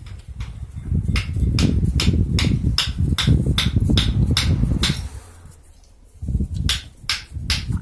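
Hand tool work on metal: sharp clicks or taps, about two or three a second, over low rumbling handling noise, in two runs with a brief pause about five seconds in.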